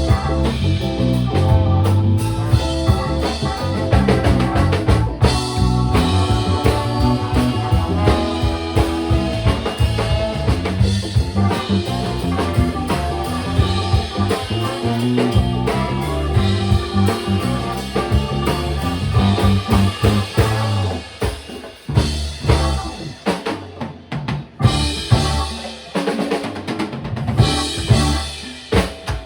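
Live funk band playing an instrumental passage with bass and drum kit. After about 21 s the band drops back, leaving mainly the drums hitting.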